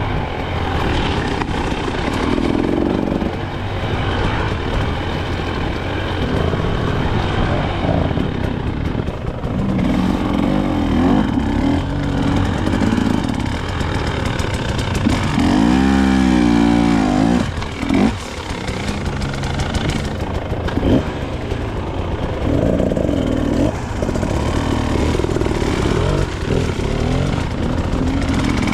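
KTM 300 XC-W two-stroke dirt bike engine under riding load, its revs rising and falling again and again, with a sharp rev up and back down about sixteen seconds in.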